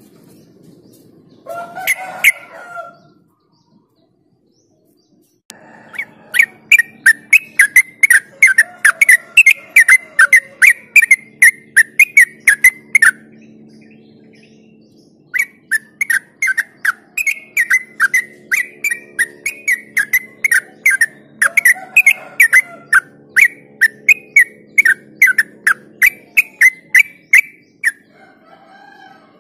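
Yellow-vented bulbul singing its rapid 'ropel' song: two long runs of quick, sharp repeated notes, about three to four a second, broken by a short pause, after a brief single call near the start.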